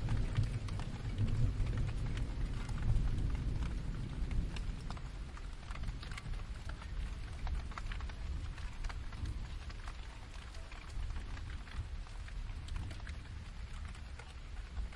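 Steady rain with scattered drops tapping, over a low distant thunder rumble that dies down over the first few seconds.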